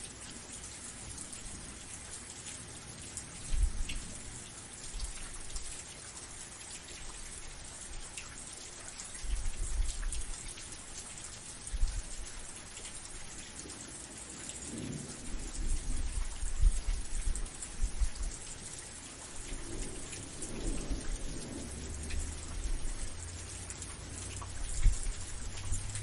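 Steady rain falling, a dense hiss of many drops, with low rumbles rising and fading every few seconds beneath it.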